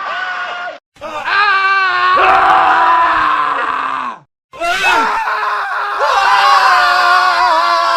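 Men screaming in a montage of separate scream clips: a short scream cuts off under a second in, a long wavering scream falls in pitch and stops abruptly at about four seconds, and after a brief silence a further long, held, wavering scream begins.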